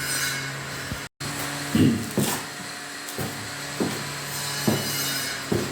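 Steady hum of a gas heat cannon running, broken off briefly about a second in. Over it come about six separate knocks at irregular intervals.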